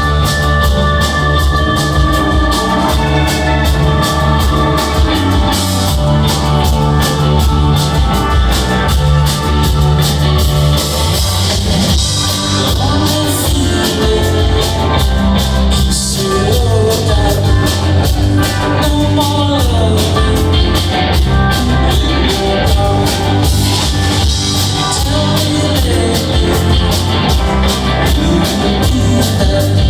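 Live rock band playing a loud jam, with a steady drum beat over heavy bass and electric guitar.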